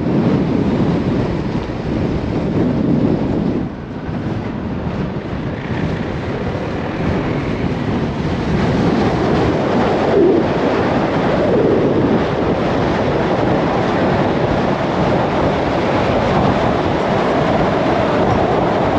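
Wind rushing over the microphone and road noise from a motorbike being ridden, with the engine note rising and falling as it speeds up and eases off; the noise dips briefly about four seconds in.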